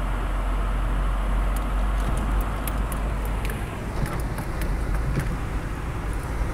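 Inside a moving vehicle driving through deep snow: a steady low rumble of tyres and engine, with scattered sharp crackles from snow under the wheels.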